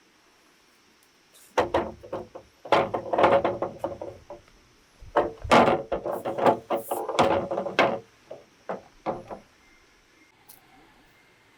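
Bamboo knocking and clattering as it is worked by hand: irregular clusters of sharp knocks and scrapes, starting about a second and a half in, loudest around three and six seconds in, and fading to a few single knocks near the end.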